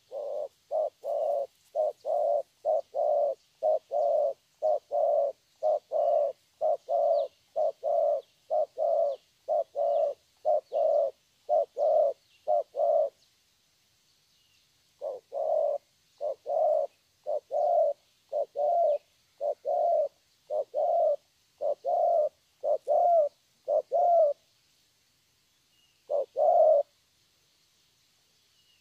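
Young spotted dove (cu gáy) cooing its 'thổ' call: a fast run of short low coo notes, about two a second, for some thirteen seconds. After a pause comes another run of about nine seconds, then one last brief coo near the end.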